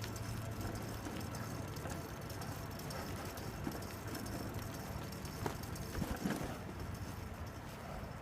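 Road bike rolling along a rough trail: steady tyre and rattle noise with a low hum, and a few sharp knocks around six seconds in.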